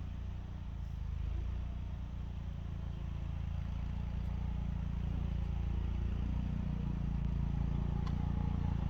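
A vehicle engine running steadily, a low hum that grows slowly louder.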